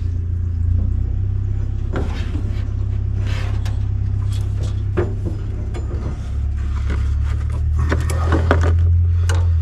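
Hands hooking up a petrol line and fittings: scattered clicks and scrapes over a steady low rumble.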